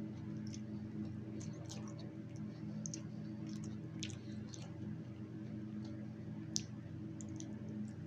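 Close-up chewing of a sub sandwich: soft wet mouth clicks and smacks at an irregular pace, one sharper click about six and a half seconds in. A steady low hum runs underneath.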